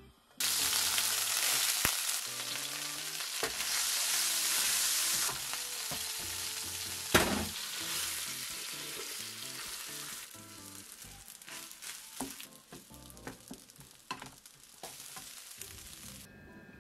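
Chopped garlic sizzling hard in hot oil in a non-stick frying pan, with a sharp knock about seven seconds in as cooked rice goes in. The sizzle then dies down to a quieter hiss with the wooden spatula clicking and scraping as the fried rice is stirred.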